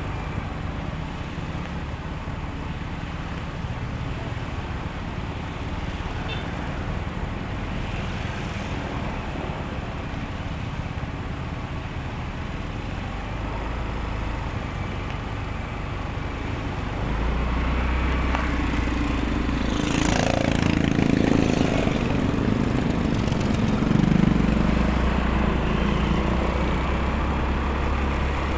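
Motorcycle ride road noise: steady engine and wind rumble with passing traffic, growing louder a little past halfway as a heavier vehicle comes close.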